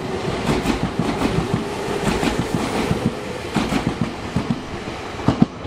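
A Nankai electric commuter train running past the platform, its wheels clattering on the track in quick, irregular clicks and knocks over a steady rumble, with one louder knock near the end.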